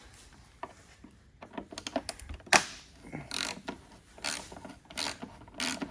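A rusted fastener being worked loose with a hand tool: scattered clicks, one sharp click about two and a half seconds in, then metal scraping strokes repeating about every 0.7 seconds. The fastener is rusted through.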